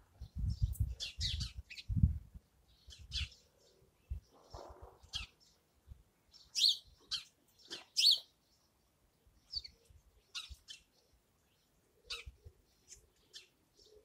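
Small garden birds at a feeder giving short, sharp, high chirps, scattered and irregular, the two loudest about six and a half and eight seconds in. Low rumbling thumps come in the first two or three seconds.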